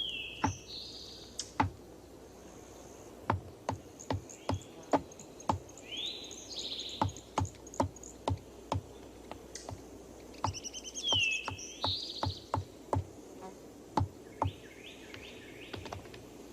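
Red-cockaded woodpeckers pecking at pine bark: sharp, irregular taps about one or two a second. Between the taps come bouts of short chirping calls, four times.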